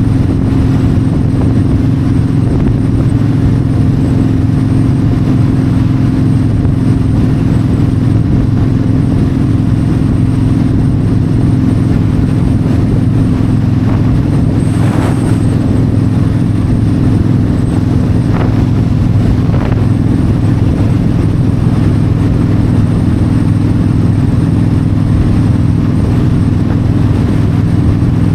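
Yamaha V-Star 1300's V-twin engine running steadily at highway cruising speed, with wind and road noise. About halfway through there is a brief rush of noise, and two faint ticks follow a few seconds later.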